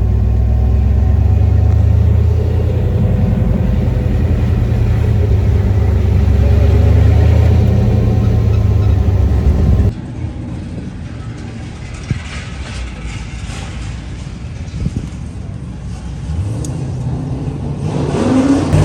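An LS V8 car engine running steadily under load, heard from inside the cabin. About ten seconds in, the sound drops suddenly to a quieter engine drone with a few knocks.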